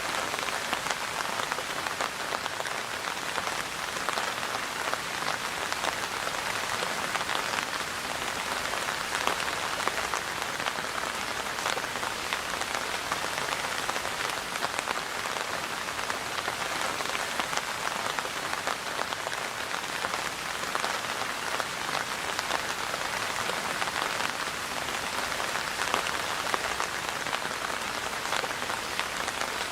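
Steady rainfall, with many fine drop ticks spattering on a surface over an even rushing hiss.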